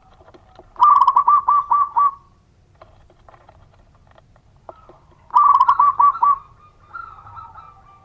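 Zebra dove (perkutut) singing: two loud phrases of rapid, rhythmic cooing notes, each lasting about a second, about four seconds apart. Softer, longer coos follow near the end.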